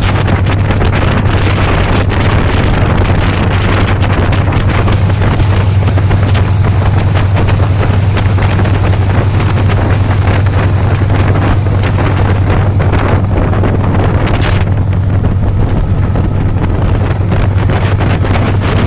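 Meter-gauge passenger train running at speed: a steady low rumble with a dense clatter of wheels on rail, and wind buffeting the microphone.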